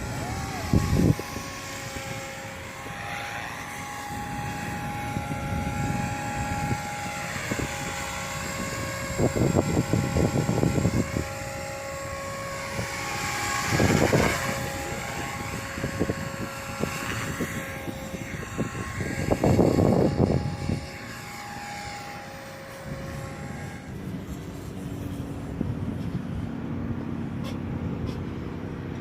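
Electric motor of a radio-controlled model aircraft whining overhead, its pitch sliding up and down as it throttles and passes. Strong wind gusts buffet the microphone several times, louder than the motor.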